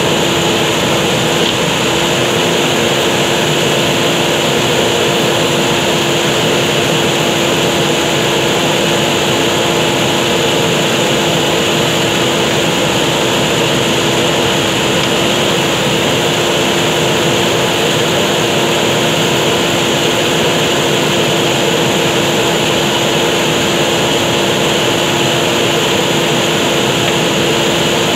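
JCB backhoe loader's diesel engine running steadily at working revs, with a constant tone over an even mechanical noise.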